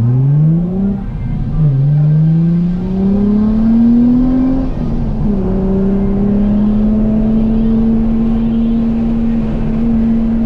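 Nissan 350Z's 3.5-litre V6 heard from inside the cabin under hard acceleration: the engine note climbs, drops sharply about two seconds in, climbs again, then drops about five seconds in at a gear change and holds steady at high revs.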